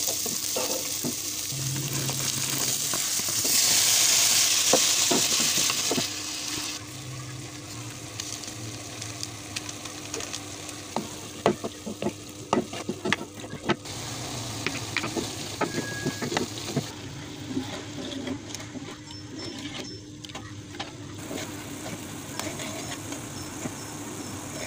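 Chopped onion and chili sizzling in oil in a square nonstick pan, stirred with a wooden spatula. A much louder sizzle for about three seconds, from about three and a half seconds in, as the mixed vegetables go into the hot oil. After that come many clicks and scrapes of the spatula against the pan over the steady frying.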